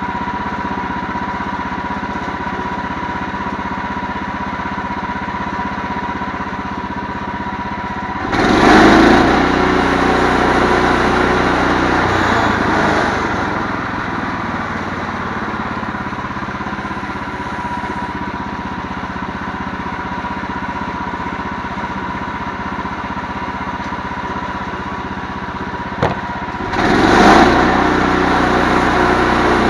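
An engine running steadily, rising sharply in loudness about eight seconds in and easing back over the next few seconds, then rising sharply again near the end, just after a short click.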